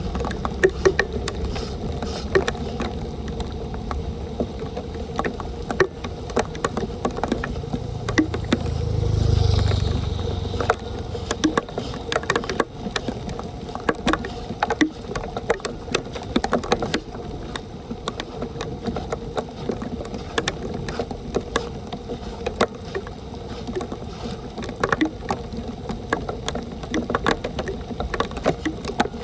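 Rain and splashing, running water with frequent short knocks and scrapes, the sound of debris being cleared from a flooded street drain. A low rumble swells up about eight seconds in and fades a few seconds later.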